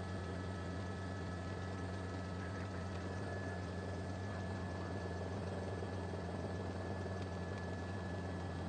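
Steady drone of a news helicopter's engine and rotor heard from inside the aircraft, an even low hum with a thin, constant high whine over it.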